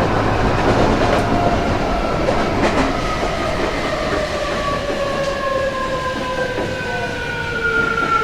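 Tokyo Metro 07 series car's Hitachi full-SiC VVVF inverter and eight-pole permanent-magnet motor whining as the train slows, several tones falling steadily in pitch together. Wheel and rail rumble runs underneath.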